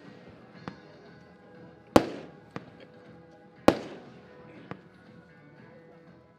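Diamond Tropical Beach consumer firework battery firing. Two loud bangs about two and three and a half seconds in each ring out with an echoing tail, with fainter cracks between them.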